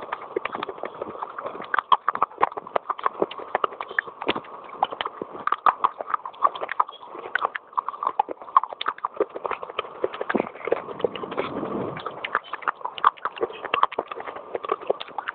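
Pieces of baked clay pot being bitten and chewed: dense, irregular crisp cracks and crunches, several a second.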